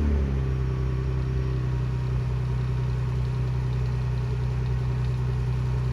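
2020 Ford Explorer engine through a Gibson axle-back exhaust, settling back from a rev right at the start and then idling steadily.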